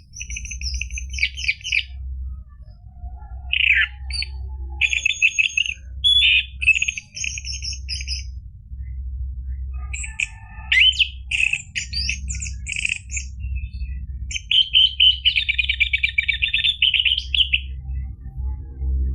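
Orange-headed thrush (anis merah) singing: a run of varied phrases of rapid chirps and trills, broken by short pauses, over a steady low hum.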